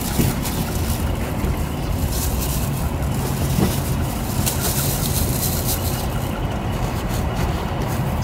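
Wind buffeting the microphone: a loud, steady rumbling noise with crackle on top.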